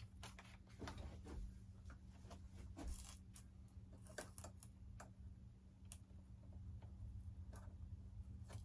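Faint, irregular clicks and taps from hands working a wire lead into a foam RC model's wing, with a low steady hum underneath.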